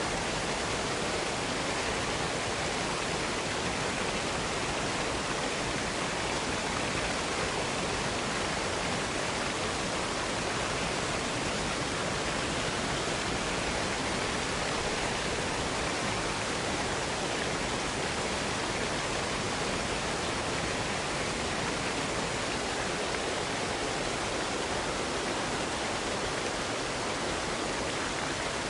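Water pouring down a cascade, a steady, even rush with no breaks.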